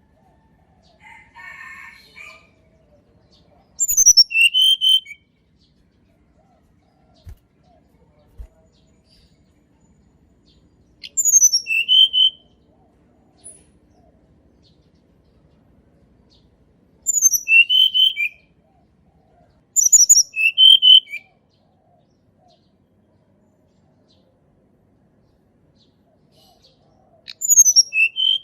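Tledekan gunung songbird singing five short phrases spaced several seconds apart. Each phrase is a quick run of very high notes falling in pitch, followed by a couple of lower notes.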